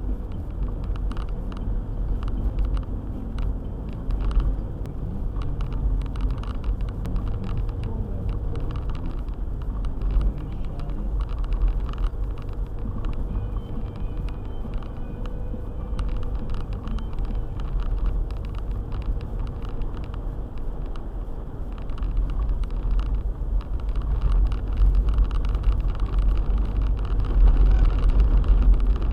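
A car driving on a snowy road: a steady low rumble of engine and road noise, with many small clicks and knocks throughout, growing a little louder over the last several seconds.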